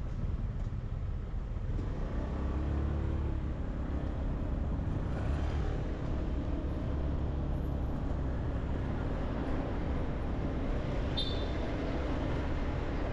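Motorbike riding through city traffic: its small engine runs steadily among the noise of surrounding traffic, with the low rumble growing heavier about two seconds in. A short high-pitched beep comes near the end.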